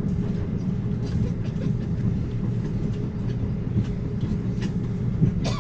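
Amtrak Cascades passenger train running along the track, heard from inside the coach: a steady low rumble of wheels on rail with scattered light clicks, and a brief louder knock just before the end.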